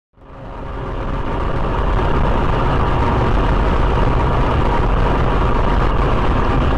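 A motor vehicle driving, its engine and road noise steady with a heavy low rumble, fading in over the first two seconds.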